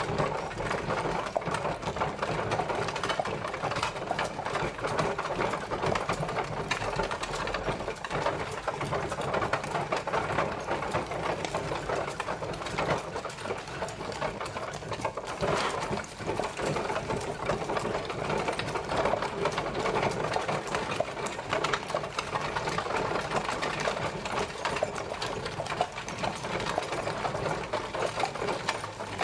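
Horse-drawn carriage travelling: a steady, fast rattling clatter of the moving carriage that goes on without a break.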